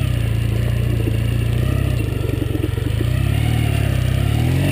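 Honda Rebel motorcycle engine running at steady, raised revs, its pitch sagging a little in the middle and rising again near the end, while the rear wheel spins for grip in snow.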